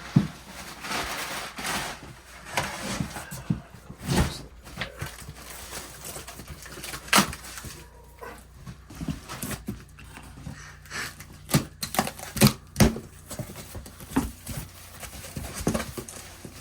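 Items being handled and shifted around in cardboard boxes: scattered knocks and clunks with some rustling, loudest in a cluster of sharp knocks a little past the middle.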